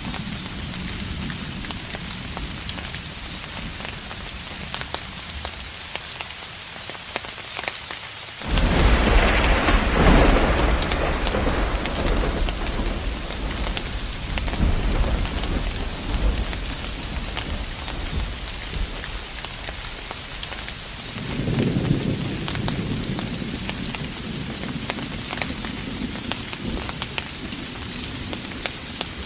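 Steady rain falling, with distant thunder: a rumble breaks in suddenly about a third of the way through and rolls on for several seconds before fading, and a second, weaker rumble follows later.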